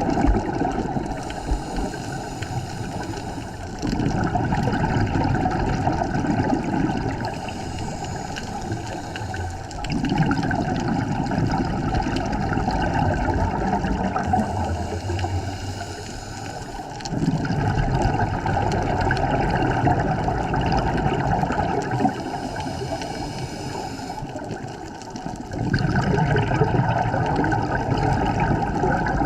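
Scuba diver breathing through a regulator underwater: a loud bubbling exhale roughly every six to seven seconds, alternating with the quieter hiss of each inhale.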